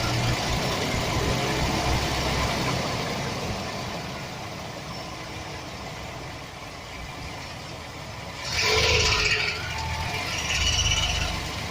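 The 4.3-litre V6 of a 2007 Chevy Express van running at idle, with a rattle that the owner puts down to a bad starter motor gear bumping against the flexplate. A louder burst of noise lasting about a second comes roughly eight and a half seconds in.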